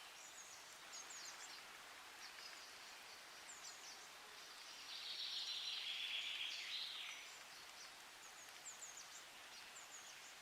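Songbirds singing: one bird gives a loud song phrase of about two seconds, roughly five seconds in, while other birds make short high chirps throughout.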